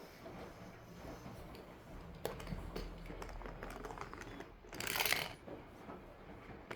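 Light clicks and taps of small plastic toy cars and a toy garage being handled, with a brief scraping rustle about five seconds in.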